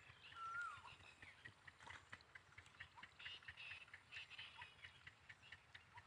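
Faint wild bird calls: a short whistled note that slides down in pitch about half a second in, with bursts of high chirping and rapid ticking notes.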